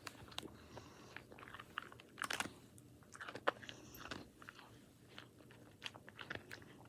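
A dog crunching and chewing a hard Milk-Bone dog treat, with irregular crunches every fraction of a second.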